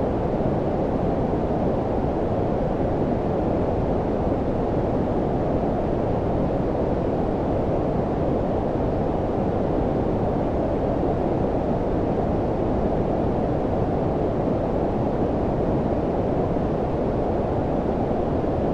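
Steady synthetic low-frequency noise, a warm brown-noise-like rush: deep and muffled, with little hiss on top and no change in level or character.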